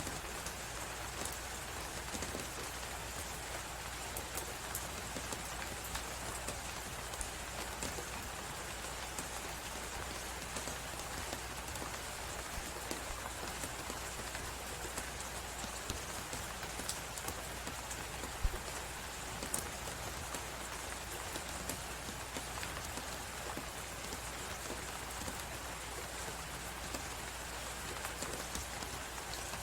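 Blizzard wind and a crackling fireplace: a steady rushing hiss with scattered sharp crackles throughout, and one louder pop a little past the middle.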